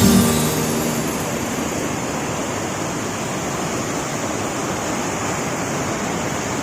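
River water rushing, a steady even noise with no breaks; the last notes of background music fade out in the first half second.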